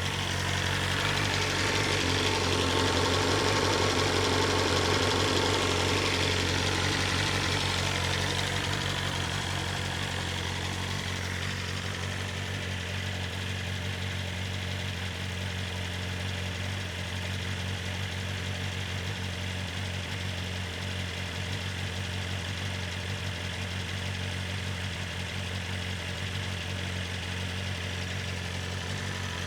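BMW S1000RR inline-four engine idling through its stock Akrapovic exhaust. It swells louder for several seconds near the start, then settles into a steady idle.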